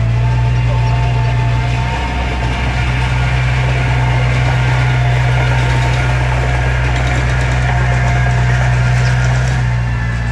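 Diesel engine of heavy earthmoving equipment running steadily, a low drone with a thin whine above it.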